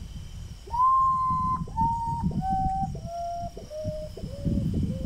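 A bird whistling a slow series of about seven clear notes, each lower in pitch than the one before, starting about a second in with the loudest first note.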